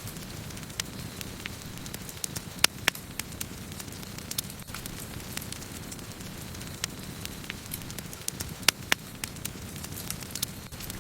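Wood campfire burning: a steady low rumble of flames under frequent sharp crackles and pops from the burning wood, with two louder pops, one about a quarter of the way in and one about three-quarters of the way through.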